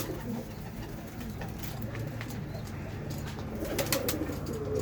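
Domestic pigeons cooing in a loft, with a few sharp clicks near the middle and end.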